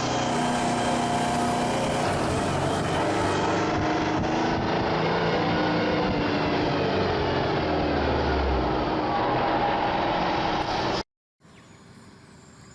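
Heavy truck engine running under load, its pitch shifting. About eleven seconds in it cuts off abruptly, giving way to a much quieter steady rumble.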